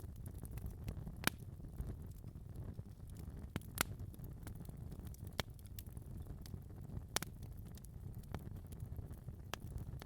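Wood fire burning in a fireplace: a steady low rumble of the flames with irregular sharp crackles and pops, a few louder snaps among many faint ticks.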